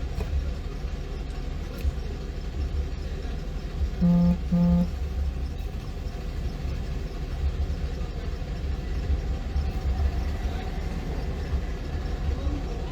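Steady low rumble of a running vehicle or passing traffic, with two short horn toots close together about four seconds in.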